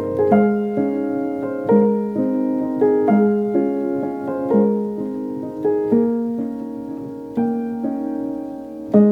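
Background piano music: slow, gentle notes and chords struck about every second or so, each ringing on.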